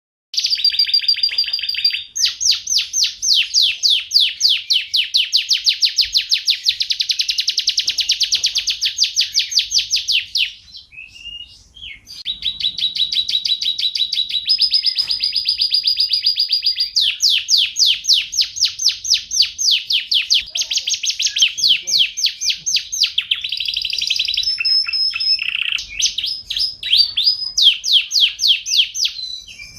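Domestic canary singing: long, fast trills of rapidly repeated high notes, shifting from one trill type to the next, with a short break about ten seconds in.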